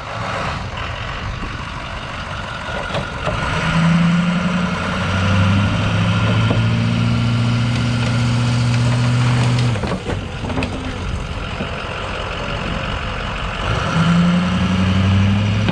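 Monster truck engine running. It rises to a steady higher pitch about four seconds in and holds it for about six seconds, drops back, then rises again near the end.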